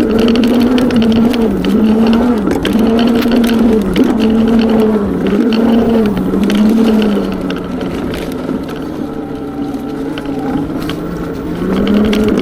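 Valtinsu EM22 electric dirt bike's motor whining under throttle, its pitch dipping and rising again and again as the rider works the throttle, over tyre and trail noise with scattered clicks. The whine eases off for a few seconds past the middle and picks up again near the end.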